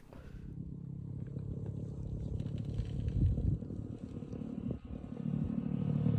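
Motorcycle engine running, getting gradually louder.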